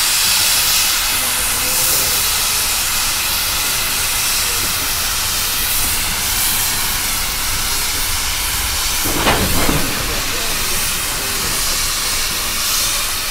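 Steady hiss and low rumble aboard a moving steam excursion train, with a short, louder noise about nine seconds in.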